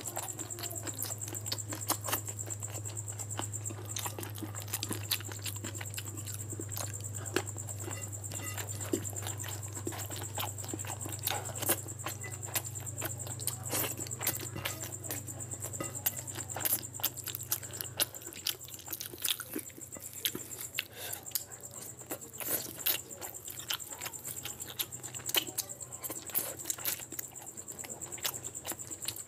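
Chewing and wet mouth clicks and smacks of a man eating curried rice and chicken by hand, a dense run of small irregular crackles. A steady low hum underneath stops about two-thirds of the way through, and a faint high whine runs on.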